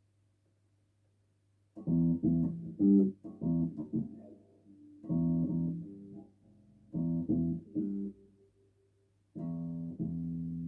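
Electric bass guitar playing short phrases of plucked notes, starting about two seconds in, with brief pauses between the phrases. A steady low hum sits underneath.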